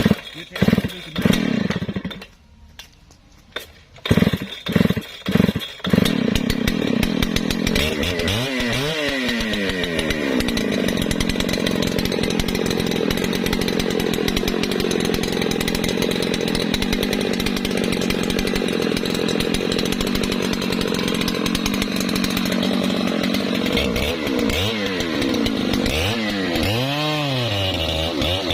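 Husqvarna 3120 XP two-stroke chainsaw: several short bursts of engine sound in the first six seconds, then the saw runs steadily, its revs rising and falling twice.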